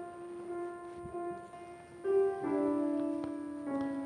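Keyboard instrument playing a short introduction of held notes: a single note, then chords changing about two seconds in and again near the end, leading into the sung psalm response.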